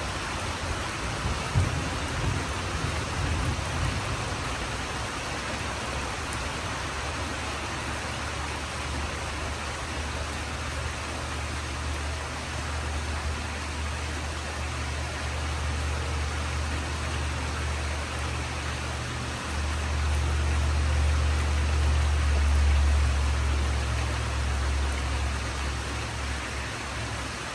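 Steady rain falling, with a deep rumble of thunder that builds through the second half, loudest a few seconds before the end.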